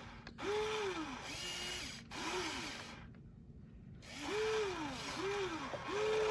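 Small electric motor of a radio-controlled construction model whining in short pulses, each rising and falling in pitch as it spins up and stops. There are about five pulses, with a pause of about a second near the middle, and the last one holds on steady near the end.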